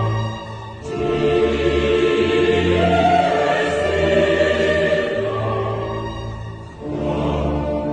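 Choral music: a choir singing long held notes over low sustained accompaniment, with short breaks between phrases.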